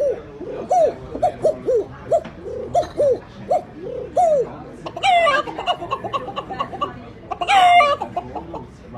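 A man imitating a hen with his voice: a run of short clucks, about two a second, then two louder, longer squawks about five and seven and a half seconds in.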